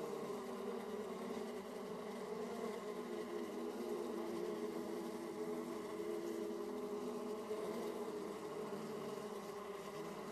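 Honeybees humming at a hive entrance: a steady buzz of many bees, with the pitch wavering slightly as bees come and go.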